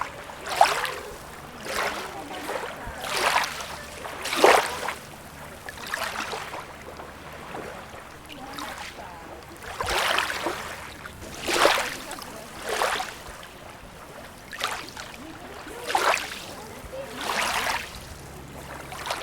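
Small sea waves lapping and splashing at the water's edge, a short splash roughly every second or so, some louder than others.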